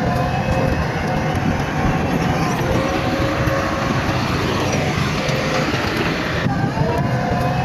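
Heavy diesel earthmoving machinery running under load, with a steady whine over the engine noise. The sound changes abruptly about six and a half seconds in.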